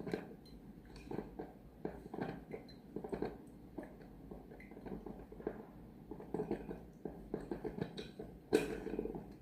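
Irregular light knocks, clicks and clatter from coffee-making gear being handled, with one louder knock near the end.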